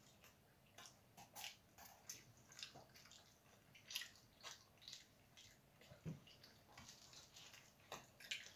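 Quiet wet mouth sounds of people chewing pizza: an irregular scatter of short smacks and clicks, several a second.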